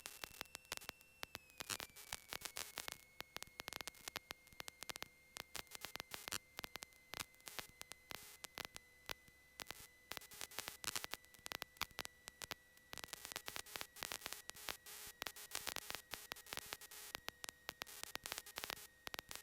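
Faint crackling static on the headset and radio audio feed between transmissions, with a faint high electrical whine that drops slightly in pitch about a second and a half in.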